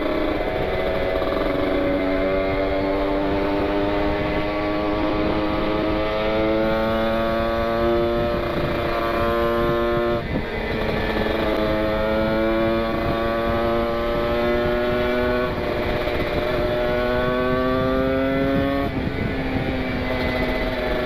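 Kawasaki Ninja 150 RR's single-cylinder two-stroke engine and exhaust under full throttle. The pitch climbs steadily through each gear and drops sharply at each upshift, several shifts in a row, over steady wind rush on the microphone.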